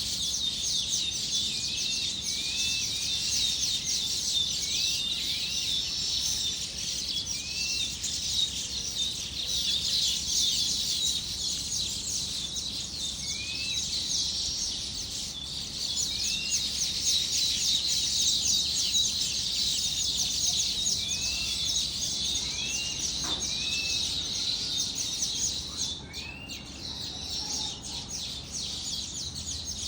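A flock of birds chirping together in a dense, continuous chatter. Over it, one bird repeats a short upward-sweeping call every second or two. The chorus eases off a little near the end.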